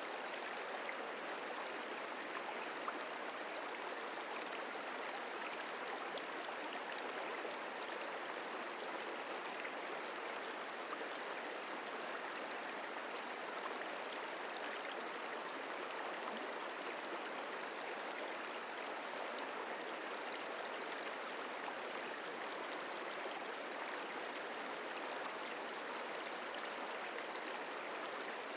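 Merced River flowing over rocks: a steady, even rush of water with faint splashes.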